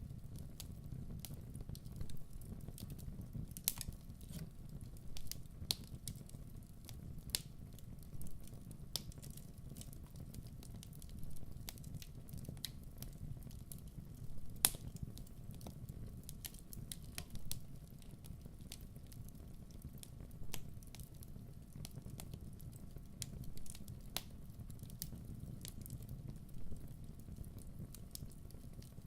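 Wood fire burning with a steady low rumble and scattered sharp crackles and pops, one louder pop about halfway through.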